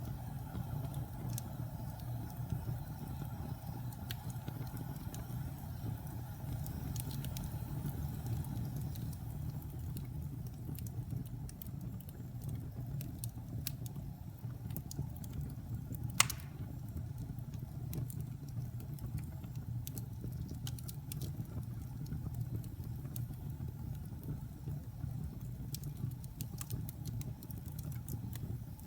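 Wood fire burning in a fireplace: a steady low rumble of flames with scattered crackles, and one sharp, loud pop about halfway through.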